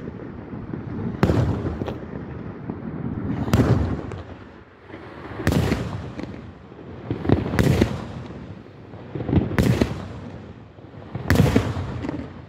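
Aerial firework shells bursting in the sky, one sharp boom about every two seconds, each followed by a rolling rumble.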